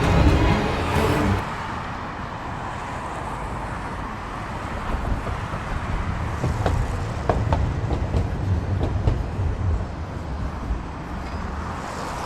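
Street traffic noise: a steady low rumble of road vehicles, with a few short sharp clicks in the middle.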